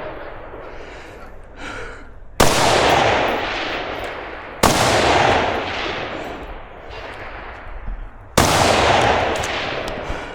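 Three single gunshots, the second about two seconds after the first and the third about four seconds later, each followed by a long rolling echo that fades over about two seconds.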